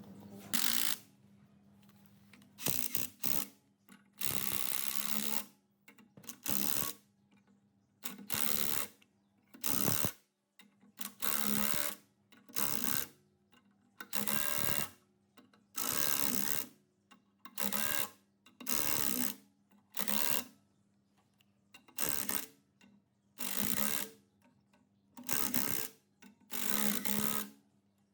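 Repeated scraping strokes of hand abrasive work on metal machine parts, such as filing or sanding. Each stroke lasts under a second, about one every one and a half seconds, over a faint steady hum.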